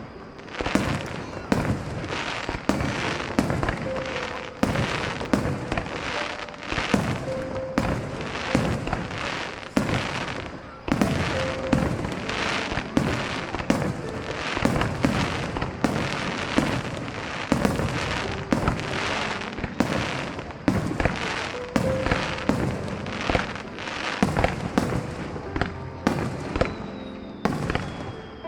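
Fireworks display in a rapid barrage: aerial shells bursting a bit more than once a second, each bang followed by crackling, with no real pause throughout.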